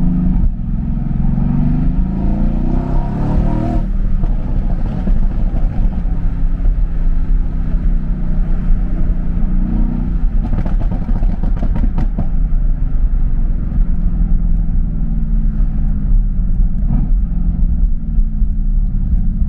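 Mercedes-AMG GT S twin-turbo V8 with aftermarket downpipes running under way, heard from inside the car. Its note rises and falls with the throttle, climbing in steps over the first few seconds.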